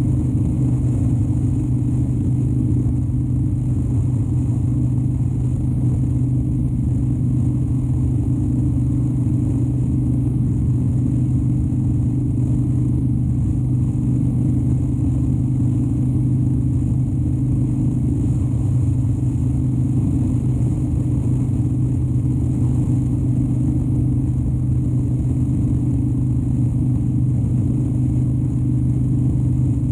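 2013 Harley-Davidson Dyna Wide Glide's Twin Cam 103 V-twin running at a steady cruise, its engine note holding level with no change in speed.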